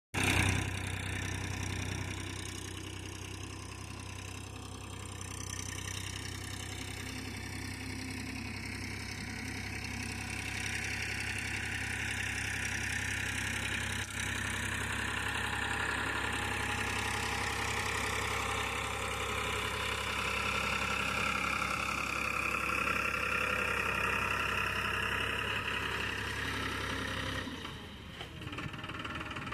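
Farmtrac XP 41 tractor's diesel engine running steadily with a low drone while pulling a 14-tine harrow. The steady low drone drops away near the end.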